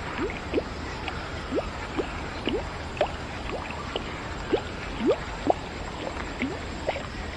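Water dripping into water: irregular short plinks, each rising quickly in pitch, about two or three a second over a steady hiss.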